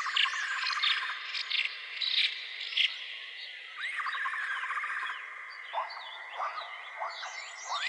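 A chorus of wild animal calls. A call rises and then breaks into a fast rattling trill, repeating about every four seconds, among many short high chirps and a steady high-pitched tone.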